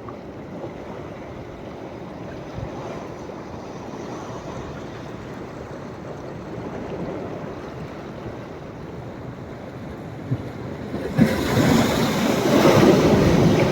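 Sea surf on a beach at rising tide: a steady wash of small waves, then a louder wave breaking and rushing in near the end.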